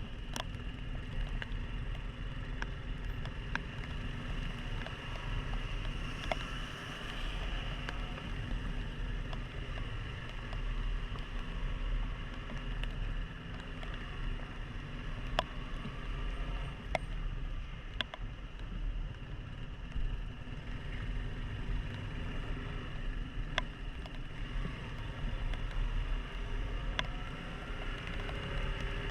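Single-cylinder motorcycle engine running under way, with the steady hiss of tyres and wind on a wet road and occasional sharp ticks. The engine pitch climbs near the end as it speeds up.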